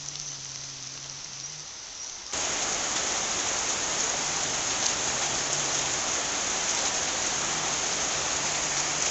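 Heavy rain falling with a steady hiss, which jumps sharply louder about two seconds in.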